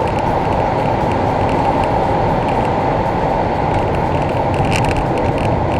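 Citroen C-Crosser SUV being driven, with a steady mix of engine, tyre and wind noise and no clear rise or fall in engine pitch.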